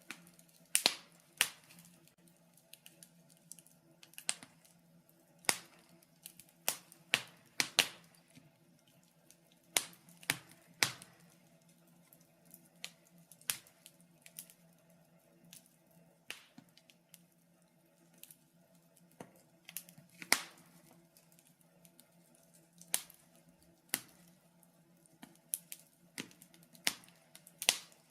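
Wood fire in a fireplace crackling, with irregular sharp pops and snaps a second or several apart, over a faint steady low hum.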